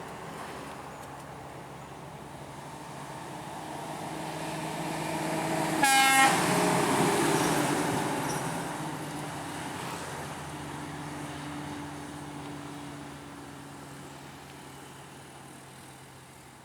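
Scania P420 truck going past: engine and road noise swell to a peak about six seconds in, where the horn gives one short toot, then fade away.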